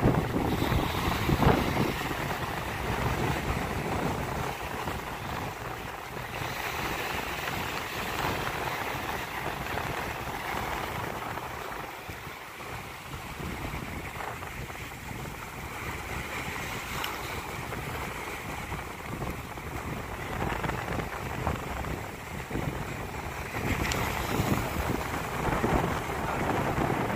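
Wind buffeting the microphone over a steady wash of sea waves, gusting harder near the start and again near the end.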